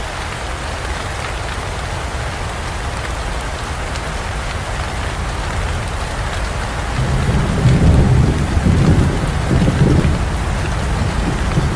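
Heavy rain falling steadily in a forest, with thunder rumbling in from about seven seconds in and rolling on to the end.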